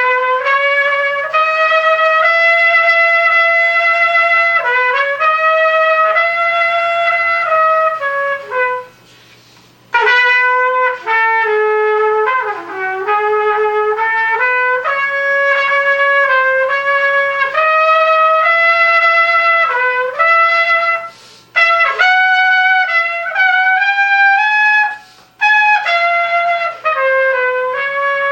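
Unaccompanied solo trumpet playing a single melodic line of mostly held notes, broken by a few brief pauses.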